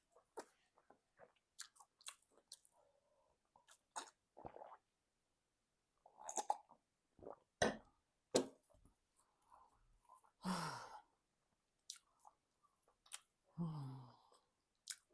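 Close-miked chewing and wet mouth sounds of someone eating egusi soup with semolina: irregular lip smacks and sharp clicks. About ten seconds in, and again near the end, comes a short low sound from the throat that falls in pitch.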